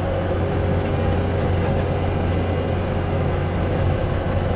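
John Deere 335P skid steer's diesel engine running steadily under load with a constant drone while the bucket digs out pothole material.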